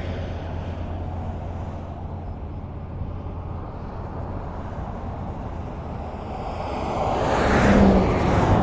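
Highway traffic: a steady low rumble of cars on the road, then one vehicle passes close near the end, its tyre and engine noise swelling up to a peak and falling away.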